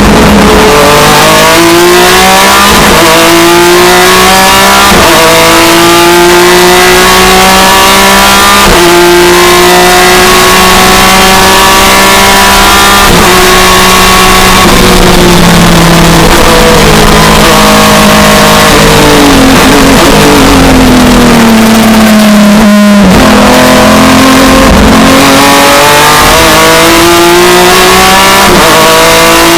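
BMW E36 M3 IMSA GT race car's straight-six engine heard from inside the cockpit under hard acceleration, its pitch climbing and dropping back at each upshift. About two-thirds through it comes off the throttle, pitch falling through downshifts, then it accelerates hard again.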